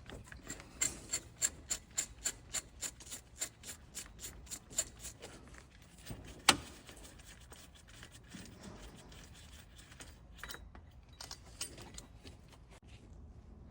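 Ratchet wrench clicking in a quick even run, about five clicks a second, as the 14mm bolt on the water pump pulley is undone. About six and a half seconds in comes one loud sharp metallic click, followed by faint handling noise.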